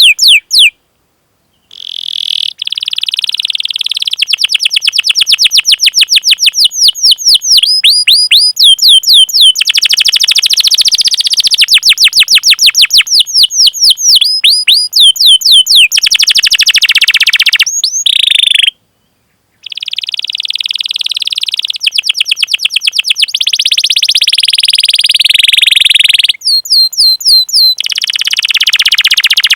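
Domestic canary singing: fast series of repeated downward-sweeping 'cuit cuit' chirps alternating with long rolling trills. The song breaks off twice for about a second.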